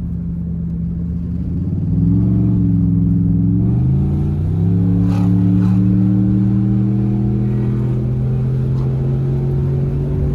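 Cammed 2008 Impala SS's LS4 V8 running through a full 3-inch straight-pipe exhaust under way, loud. The engine note climbs in two steps in the first few seconds, then holds steady.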